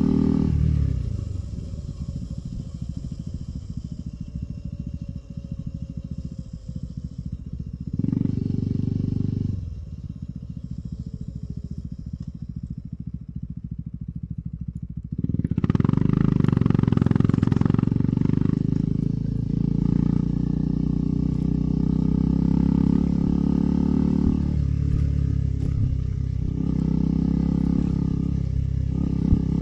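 KTM 390 Adventure's single-cylinder engine on the move: the throttle closes about a second in and the revs fall away, with a short burst of throttle around eight seconds. About fifteen seconds in it is opened up sharply and held at higher revs, with a couple of brief lifts off near the end.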